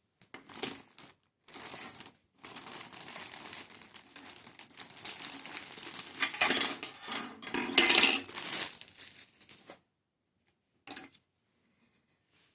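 Hands handling the packaging and parts of a diecast model car kit: crinkling and rustling with small clinks. It is loudest about six to eight seconds in and stops near ten seconds, followed by one brief handling noise.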